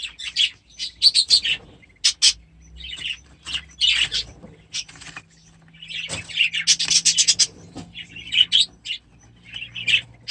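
Small aviary birds chirping and chattering in repeated bursts of high, rapid chirps with short pauses between.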